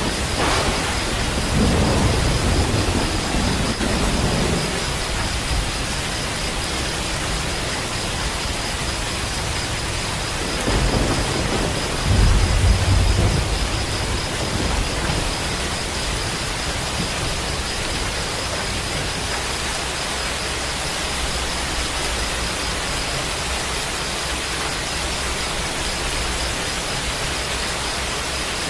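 Steady rain hiss with two deep rolls of thunder: one just after the start and a louder one near the middle.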